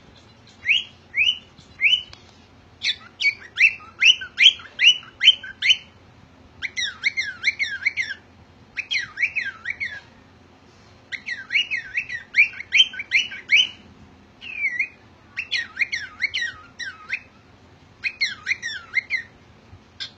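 Cockatiel chirping and whistling in quick phrases of short rising notes, several notes to a phrase, with brief pauses between phrases.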